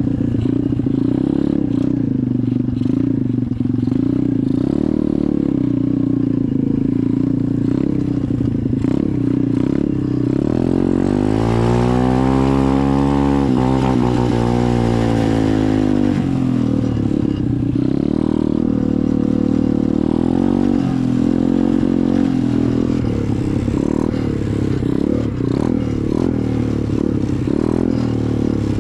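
SSR 125 pit bike's single-cylinder four-stroke engine running while being ridden, its pitch wavering with the throttle. About ten seconds in it revs up hard, holds high for a few seconds, then drops back to a lower speed.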